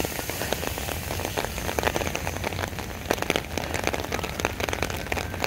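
Steady rain falling, with many close drops ticking irregularly over a constant hiss.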